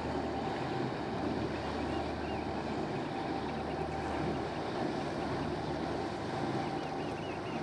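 The engines of the small car ferry MV Loch Striven running steadily underway, a constant low hum with a steady mid-pitched drone, over rushing water and wind on the microphone.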